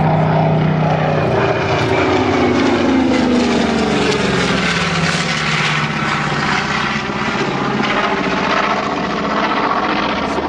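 A propeller warbird's piston radial engine running hard as the aircraft flies past. It is a steady drone whose pitch falls during the first few seconds as the plane passes.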